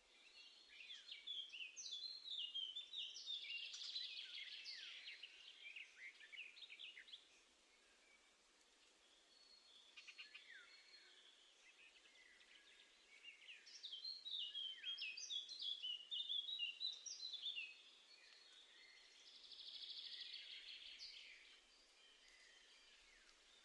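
Small songbirds singing and chirping, in two bursts of quick high notes with scattered chirps between them.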